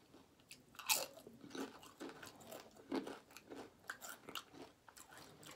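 A person crunching and chewing tortilla chips dipped in queso, a string of crisp crunches with the loudest about a second in.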